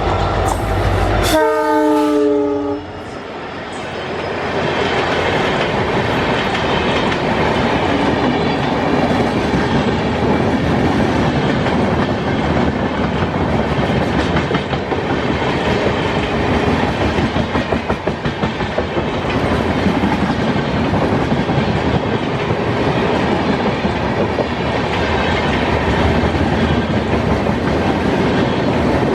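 An EMD WDP4D diesel locomotive passes close at speed with a deep engine rumble. Its multi-tone horn sounds about a second in, the pitch falling slightly, and stops after about a second and a half. The long rake of express coaches follows, rushing past with steady clickety-clack from the wheels over the rail joints.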